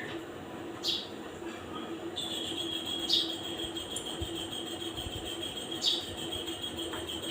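A bird giving three short, sharp chirps a couple of seconds apart, each sweeping quickly downward, while learning its call. From about two seconds in, a steady high tone runs underneath.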